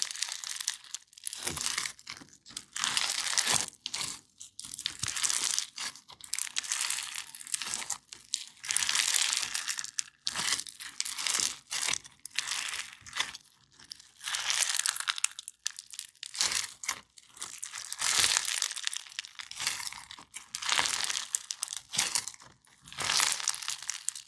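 Crunchy slime being squeezed and kneaded by hand, giving repeated bursts of high-pitched crackling and popping, each about a second or two long with short pauses between squeezes.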